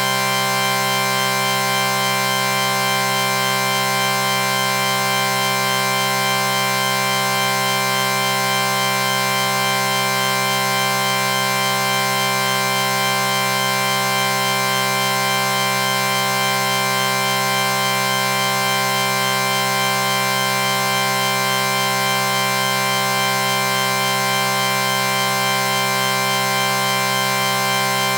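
A steady, unchanging synthesized chord: several tones held together without a break.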